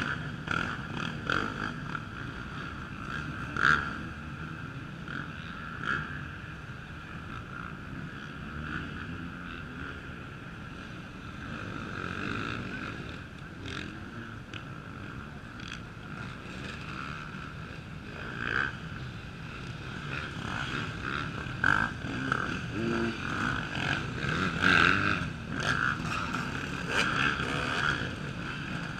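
Off-road racing motorcycle engines running and revving on the course, getting louder several times as bikes come nearer.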